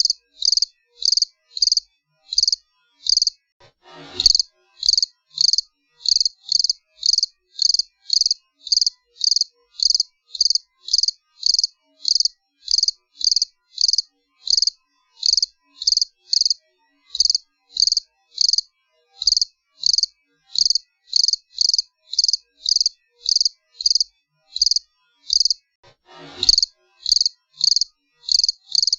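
A cricket chirping steadily in short, evenly spaced high-pitched chirps, about two a second. A brief rushing sound cuts in twice, about four seconds in and near the end.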